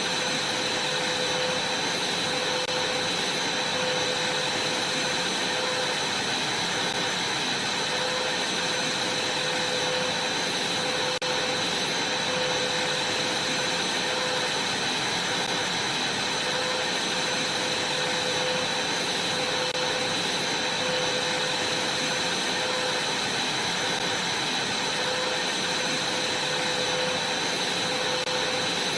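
Vacuum cleaner running steadily, a continuous motor and airflow noise with a steady high whine.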